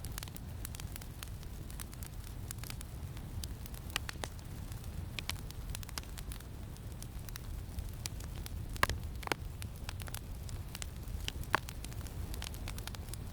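Campfire crackling, with scattered sharp pops and a few louder snaps, over a steady low rumble of wind.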